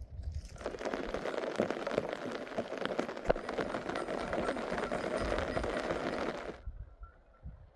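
Rain falling on a surface, a dense crackling patter that cuts off abruptly near the end.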